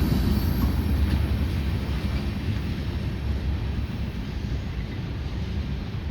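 CSX freight train rolling along the rails, a low rumble that slowly fades as the train draws away.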